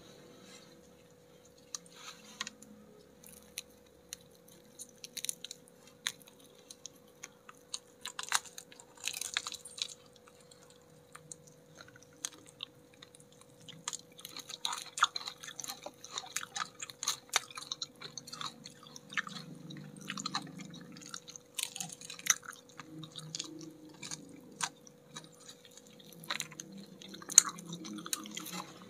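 Close-up biting and chewing of crispy battered fried chicken wings, with frequent irregular sharp crackles of the fried coating. The crackles come more densely in the second half.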